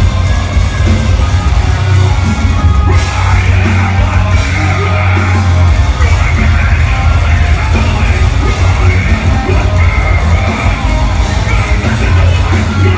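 A metalcore band playing live, with heavy distorted guitars, bass and drums. Harsh yelled vocals join about three seconds in, and the sound echoes through a large hall.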